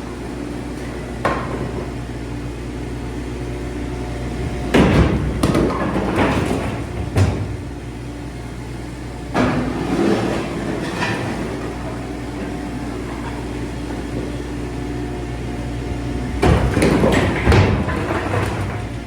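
A small machine's engine running steadily while its bucket scoops rubble, with three bouts of loud clattering and knocking as broken rubble is gathered up, about five, ten and seventeen seconds in.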